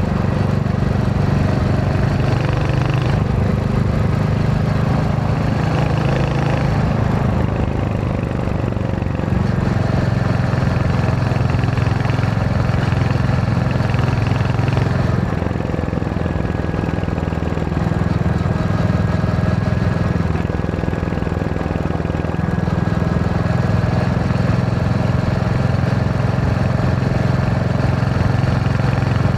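Royal Enfield Hunter 350's single-cylinder engine running steadily under way, its note easing off and picking up again a few times with the throttle.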